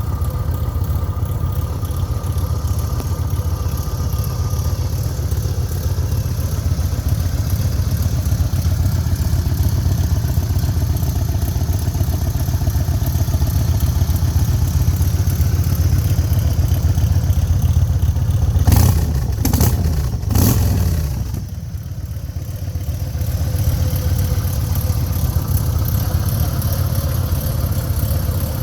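Motorcycle engine idling steadily, blipped twice in quick succession about two-thirds of the way through, each rev falling back to idle.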